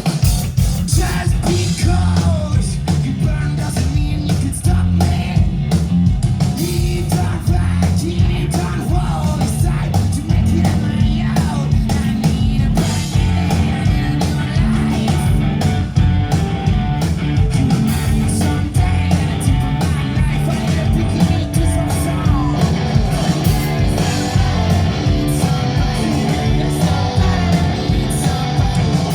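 Rock band playing live, with loud guitars over a heavy bass and drum beat, running steadily throughout.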